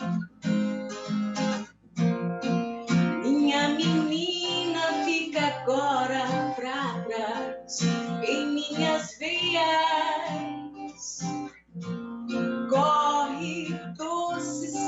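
Strummed acoustic guitar with a woman singing over it, in a live Brazilian popular-music (MPB) song heard through a video call. The voice is heard in two long phrases, the first starting a few seconds in and the second near the end.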